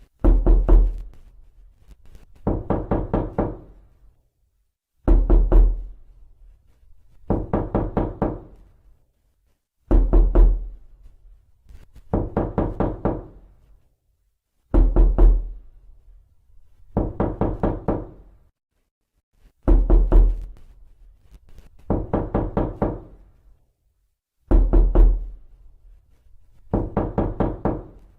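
Knuckles knocking on a wooden door, in groups of several quick raps about every two and a half seconds. Every other group opens with a heavier, deeper thud.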